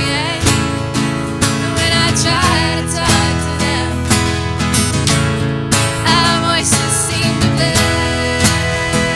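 Acoustic guitar strummed in a steady rhythm as part of a live song, with a wavering voice-like melody over it in places.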